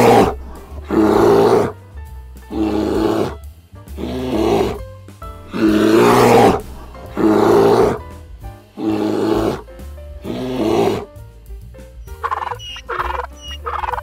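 A large animal calling in a series of about eight loud, drawn-out calls, each about a second long and evenly spaced, stopping about 11 seconds in. Soft background music plays underneath.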